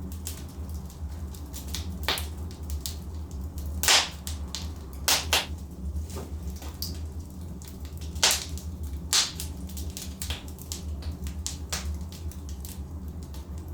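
Wood logs burning in a fireplace: irregular sharp crackles and pops over a steady low rumble, the loudest pops about four and eight seconds in.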